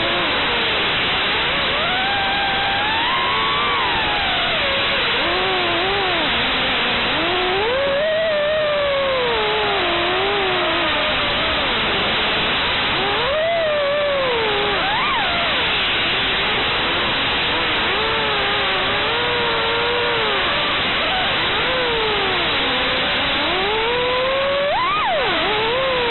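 FPV quadcopter's brushless motors (Brotherhobby R4 2450kv) whining under a loud steady hiss, their pitch sweeping up and down continuously as the throttle is worked in flight.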